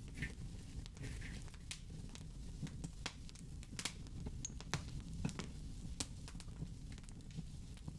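Wood fire in a fireplace crackling: a dozen or so sharp, irregular pops over a low, steady rumble.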